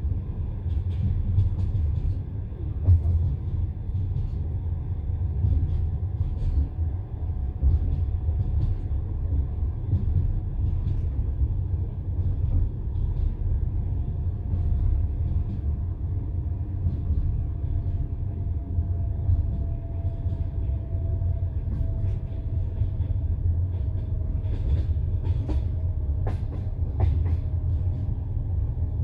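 Passenger train carriage running along the track, heard from inside: a steady low rumble with scattered clicks of the wheels over rail joints. A faint whine falls slowly in pitch over the second half.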